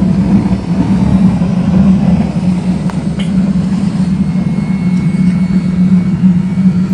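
Electric air blower of a waste oil burner running steadily, a loud, even hum over a rushing noise.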